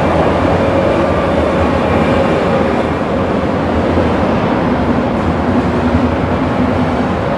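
Freight train rolling past with a steady, loud rumble of wheels on rail and a faint steady tone over it.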